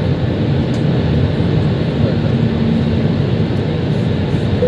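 Steady drone of engine and airflow noise inside the cabin of an Airbus A320, with a faint hum that comes and goes.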